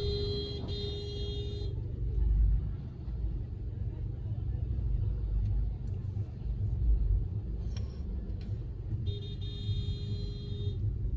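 A car horn sounds twice, each a steady blast of about a second and a half, the first at the start and the second near the end, over the low rumble of street traffic.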